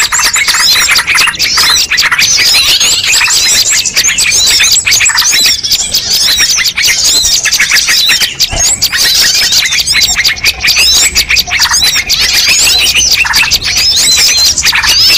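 Dense, loud chorus of many small songbirds chirping, trilling and squawking at once, with no pause: a mixed-species bird-lure recording.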